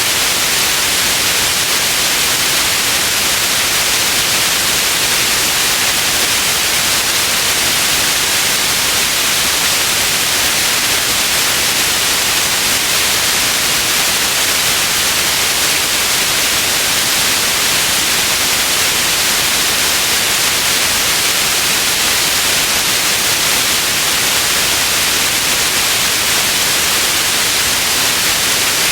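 Steady white noise: a constant, even hiss, strongest in the upper range, with no change in level.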